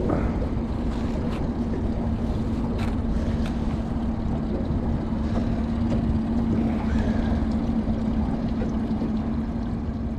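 Fishing boat's motor running steadily at trolling speed, a constant hum over a low rumble, with wind on the microphone and a few light clicks in the first few seconds.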